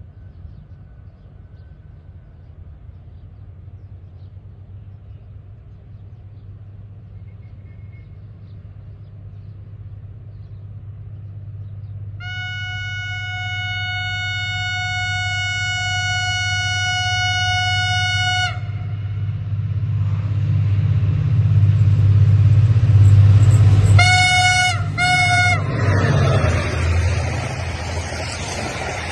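Diesel locomotive approaching with its engine rumble growing louder, sounding one long horn blast of about six seconds, then two short toots; it then passes with a rush of wheel and wagon noise.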